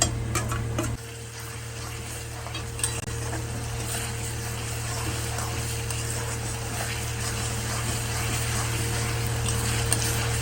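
Fried onions and ginger-garlic paste sizzling in hot oil in a kadai as they are stirred, with a few utensil clicks against the pan in the first second. The sizzle grows slowly louder.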